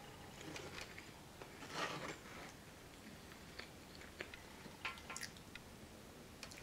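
Close-miked chewing and mouth sounds, with a metal fork clicking and scraping in a styrofoam takeout container. A brief louder noise comes about two seconds in.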